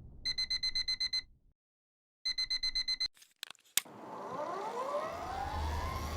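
Electronic alarm-clock-style beeping: two bursts of rapid high beeps, about nine a second, each lasting about a second with a silent gap between. A few sharp clicks follow, then several rising tones that sweep slowly upward near the end.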